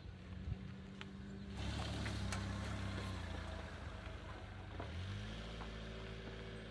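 Suzuki Fronte's air-cooled 360 cc two-stroke engine running, picking up about a second and a half in and settling back to a lower, steadier note about five seconds in.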